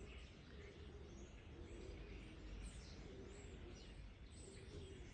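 Near silence: faint background hum with distant bird chirps now and then.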